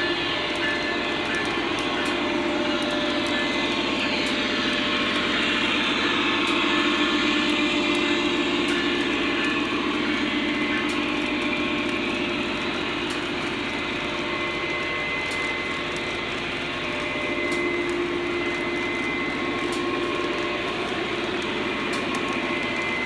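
Lionel O-gauge Union Pacific model locomotives running on track, several powered units with motor hum and wheel rumble, steady throughout, with faint scattered clicks from the rails.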